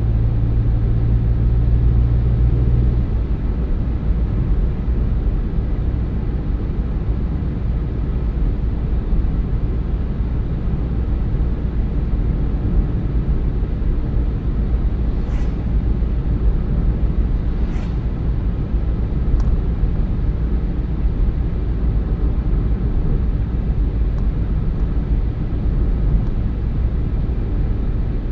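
A car being driven at a steady speed: continuous low road and tyre rumble with engine drone. A low hum drops away a few seconds in, and a few faint clicks come in the second half.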